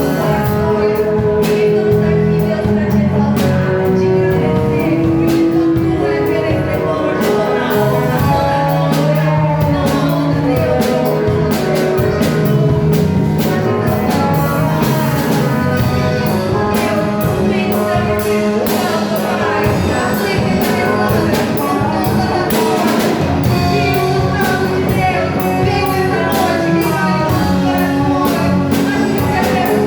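Live worship music: a band playing with a drum beat, with singing.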